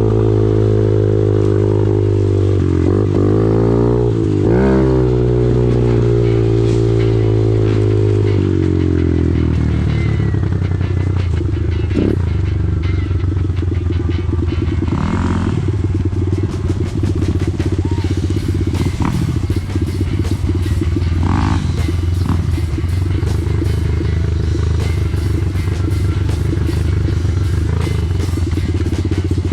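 Off-road vehicle engine running steadily near idle, revved briefly twice a few seconds in. Its note changes about eight seconds in, then it runs on at an even, fast-pulsing beat.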